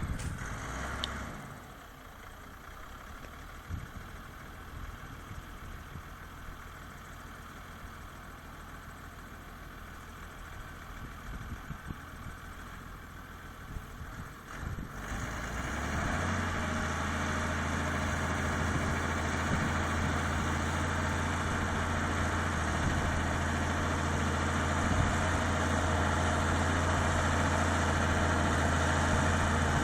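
Tractor diesel engine running: faint and uneven at first with scattered knocks, then about halfway through it comes in much louder and runs steadily with a deep hum.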